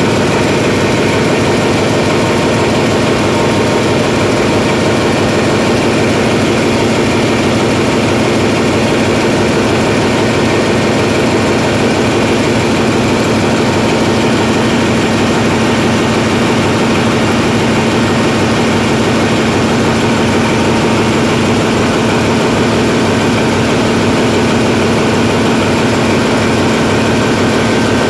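Hyundai Himsen diesel generator engine running loud and steady, a continuous drone with no change in speed.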